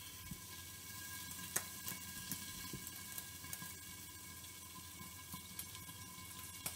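Cheese gyoza steam-frying in oil and a little water under the glass lid of a frying pan: a soft, steady sizzle with scattered small pops and crackles.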